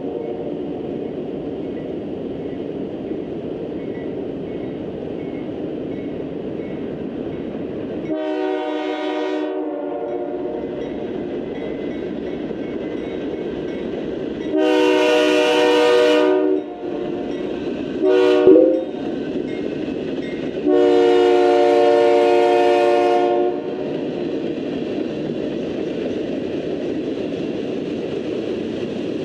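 Freight train rolling by with a steady rumble while the locomotive's multi-chime air horn sounds four blasts: long, long, short, long. This is the standard signal for a grade crossing.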